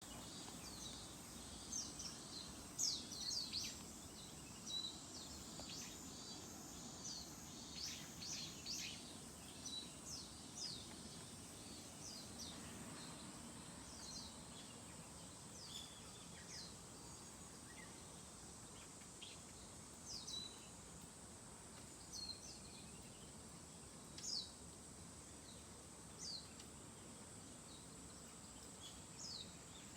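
A flock of small wild birds calling as they pass, many short, sharp, high chirps, thick in the first ten seconds or so, then scattered. A steady high hiss runs underneath.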